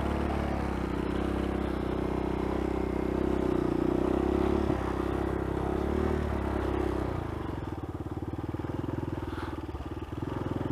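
Dirt bike engine running steadily under throttle, then easing off about seven seconds in.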